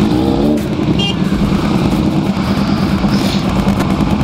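KTM 390 single-cylinder motorcycle engine running steadily under way, with even wind and road noise over it; the engine pitch shifts briefly just after the start.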